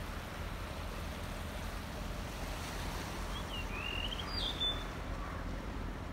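Steady low outdoor background noise, with a bird calling briefly about halfway through: a few short chirps, then a rising, wavering whistle and a short higher note.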